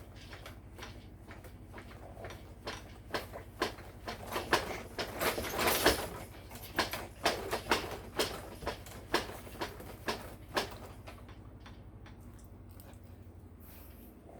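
Baby activity jumper being bounced in: a run of irregular knocks and rattles, roughly two a second, loudest in the middle and thinning out near the end.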